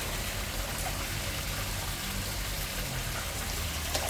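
Steady splashing of water falling into a garden koi pond, with a couple of faint clicks.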